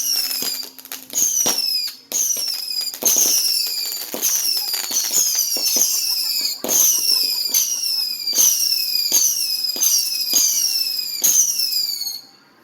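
Consumer fireworks firing a rapid series of whistling shots, about two a second. Each starts with a sharp crack and a shrill whistle that falls in pitch. The volley stops suddenly near the end.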